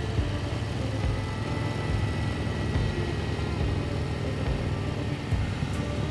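Motorcycle engine running while riding at road speed: a steady low rumble, with rushing noise over it.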